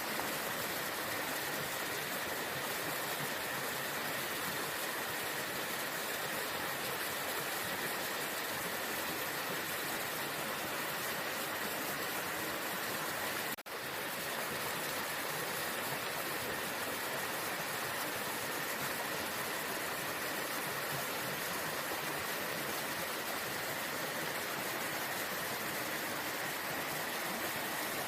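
Waterfall: steady rushing of falling water, broken by a momentary drop-out about halfway through.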